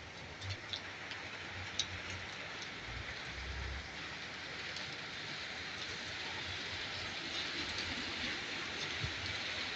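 Heavy rain falling steadily, a dense hiss of drops on hard surfaces, growing slightly louder, with a few sharper drop hits in the first two seconds and a brief low rumble about three seconds in.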